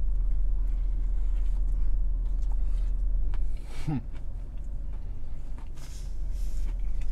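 Biting into and chewing a fried chicken sandwich with faint soft clicks, and a short hummed 'mm' about four seconds in. Under it runs the steady low rumble of the car cabin, which eases about halfway through.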